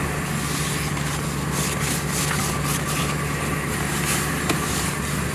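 Ford F-150 pickup's engine running at a steady, even pitch.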